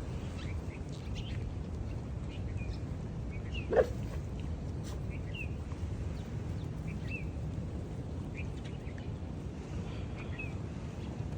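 Small birds chirping now and then over a steady low rumble, with one short, sharp, louder sound about four seconds in.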